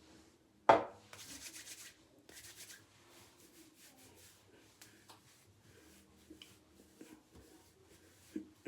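A sharp knock, then hands rubbing through hair in short bursts of rubbing that fade to faint rustling.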